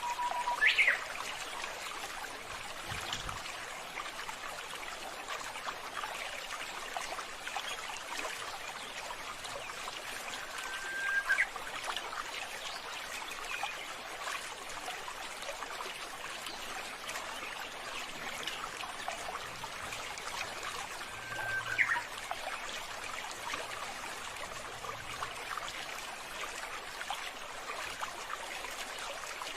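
Water trickling and running steadily, with a bird's short call three times, each a brief note that sweeps sharply upward.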